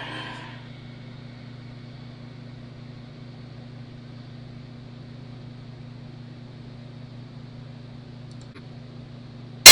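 Steady low hum with faint hiss, ending near the end in one very loud, sharp pop, then silence.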